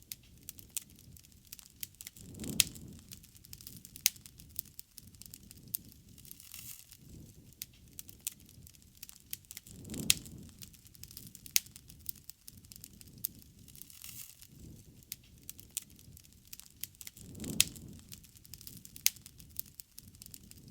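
Bonfire burning, with irregular sharp pops and crackles from the burning wood and a soft low swell about every seven to eight seconds.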